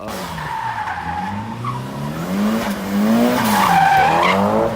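A drift car's engine revving up and down while its rear tires squeal in a slide, loudest near the end.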